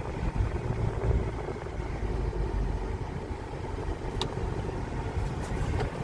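Car on the road: a steady low rumble of road and engine noise, with a sharp click about four seconds in and a few faint ticks near the end.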